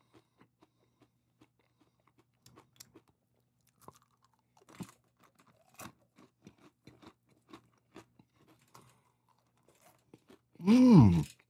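Faint crunching and chewing of hard caramel-coated popcorn, in scattered small crunches. About ten and a half seconds in, a short, loud voiced sound from the eater rises and falls in pitch.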